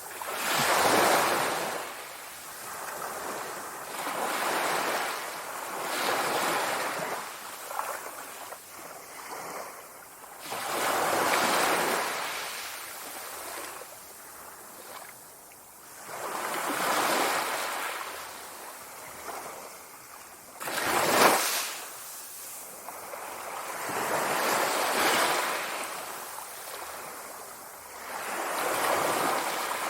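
Sea waves washing in, swelling and fading every four to six seconds. One shorter, sharper crash comes about two-thirds of the way through.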